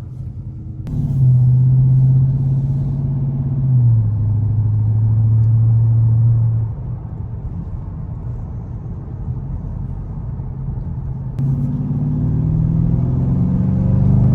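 Dodge Charger R/T's Hemi V8 under way: it pulls loudly from about a second in, drops in pitch near four seconds as it shifts, eases off just before seven seconds, then pulls again with rising pitch near the end.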